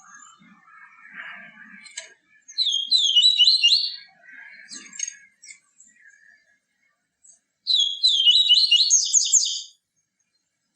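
Papa-capim seedeater singing: two bursts of fast, twittering song, each about one and a half to two seconds long, with softer chirps in between.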